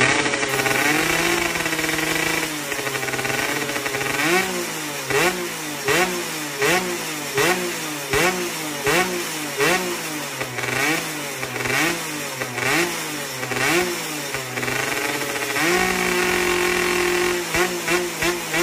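Yamaha F1ZR two-stroke single-cylinder engine through a KEN2 racing muffler, revved by hand in repeated throttle blips, each a quick rise and fall in pitch, about one every three quarters of a second. The revs are held steady at the start and again about two-thirds of the way through, and there are quicker, shorter blips near the end.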